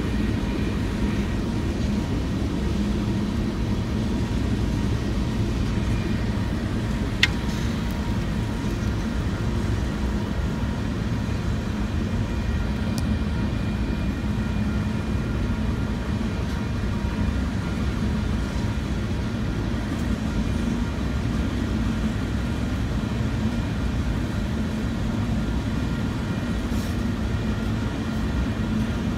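Freight train cars rolling past on the rails, a steady, unbroken rolling noise, with one sharp click about seven seconds in.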